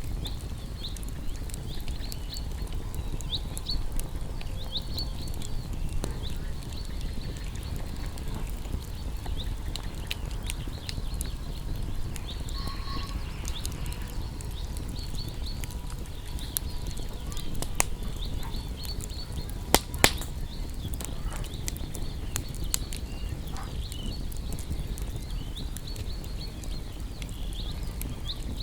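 Wood campfire burning: a low steady rush with frequent crackles and sharp pops, two loud snaps about twenty seconds in. Faint high chirps recur throughout.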